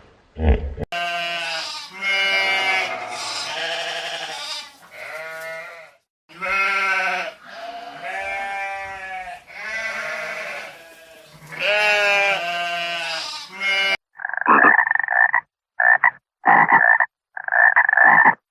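A series of long animal calls, each lasting a second or two, followed from about three-quarters of the way in by a frog croaking in short repeated bursts.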